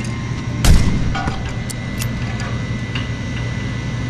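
Refrigeration condensing unit running with a steady low hum while pumping down. A loud sharp thump comes less than a second in, followed by a few lighter clicks and knocks.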